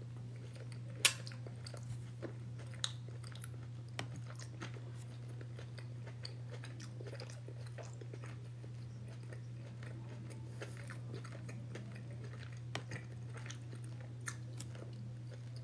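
A person chewing a mouthful of food close to the microphone, with scattered short mouth clicks, the sharpest about a second in, over a steady low hum.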